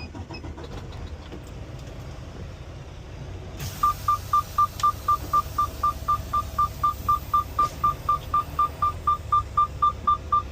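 Semi-truck diesel engine idling low, joined about four seconds in by a rapid electronic beeping, about four beeps a second at one steady pitch, which keeps going.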